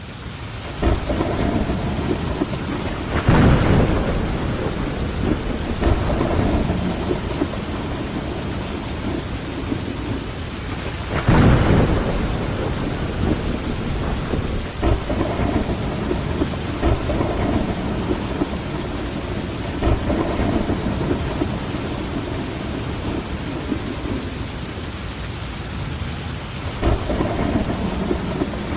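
Steady heavy rain of a thunderstorm, fading up from silence at the start, with low rolls of thunder rising above it about three seconds in and again about eleven seconds in.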